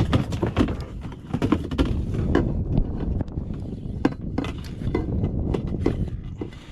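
Irregular knocks, clunks and clicks of handling on a plastic kayak, over a steady low wind rumble on the microphone.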